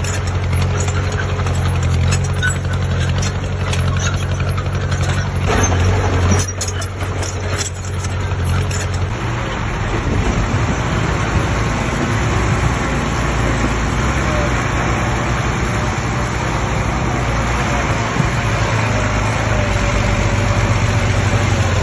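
Heavy diesel construction machine running steadily, with a few knocks about six seconds in. About nine seconds in, the low engine note gives way to a rougher, noisier running sound.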